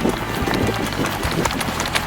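Hurried footsteps crunching through field cover, over background music.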